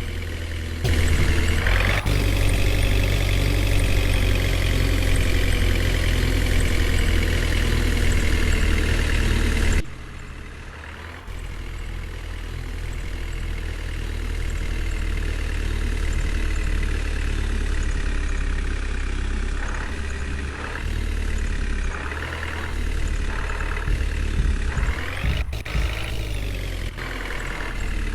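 Heavy diesel vehicle engine running steadily. It is louder for the first several seconds, drops suddenly about ten seconds in, then slowly builds again.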